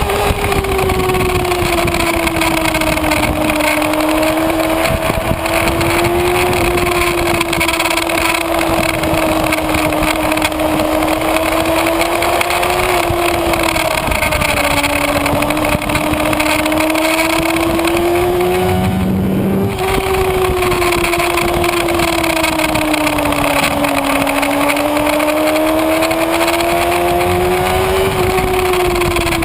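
Kawasaki Ninja ZX-6R's inline-four engine running at high revs, heard from on board the motorcycle over steady wind noise; its note rises and falls slowly as the throttle changes and breaks briefly about two-thirds of the way through.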